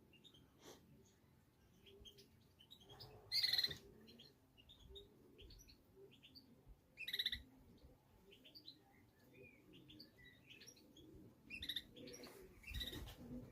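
Small birds chirping and tweeting in scattered short calls, with two louder calls about three and a half and seven seconds in and a busier run near the end.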